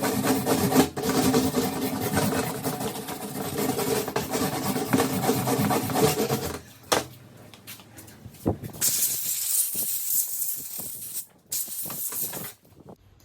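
Shindaiwa hedge trimmer's small two-stroke engine running steadily, then cutting off about six and a half seconds in. After a few light clicks, a loud hiss like an aerosol spray comes in two bursts near the end.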